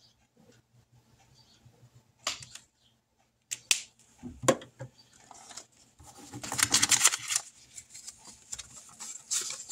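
Cash and a zippered budget envelope being handled: a few sharp clicks and taps, paper bills rustling, and a rapid rasping zipper pull of about a second and a half near the middle.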